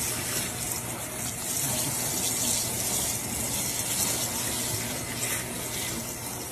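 Water running steadily into a bathtub, a continuous even hiss of flowing water.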